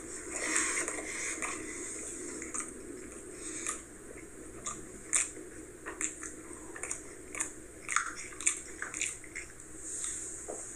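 A man chewing a mouthful of pizza, with irregular wet smacking and clicking mouth sounds.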